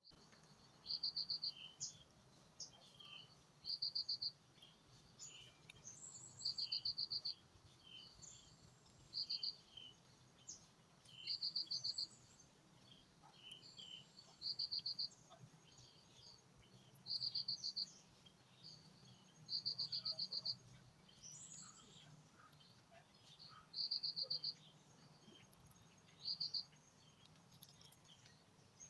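Outdoor wildlife chirping: a high, rapid pulsing trill, each about half a second long, repeats roughly every three seconds, with scattered chirps between. A faint steady low hum runs underneath.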